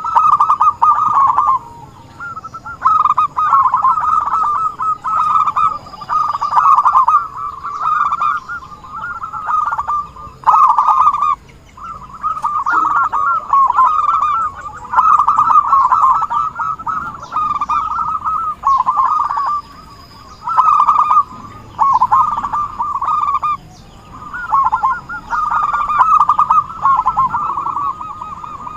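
Zebra dove (perkutut) cooing vigorously: bursts of rapid, rippling notes repeated phrase after phrase with short pauses between. This is the full territorial song used as a lure call.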